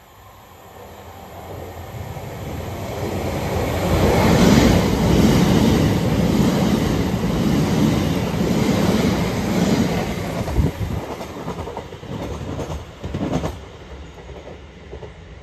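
Empty Greater Anglia electric multiple unit passing through the station without stopping: its noise builds over about four seconds, stays loud as the carriages go by, then fades, with a few sharp wheel clicks over the rail joints as the last carriages pass.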